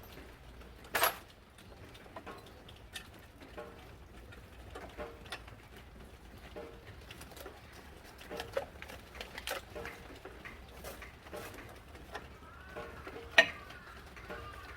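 Faint cooing of birds, repeated at intervals, among scattered light clicks, with a sharp knock about a second in and another near the end.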